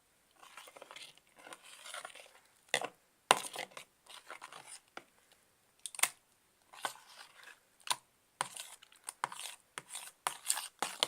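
Hands kneading and pulling freshly made clear slime (glue set with borax water), the sticky slime tearing and popping in irregular short bursts.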